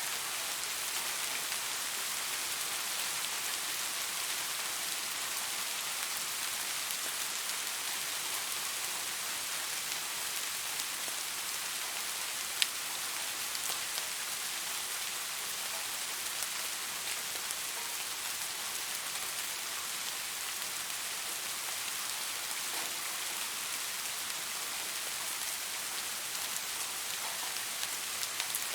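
Steady rain falling, an even hiss of drops on surfaces, with one sharp drop tick a little before halfway.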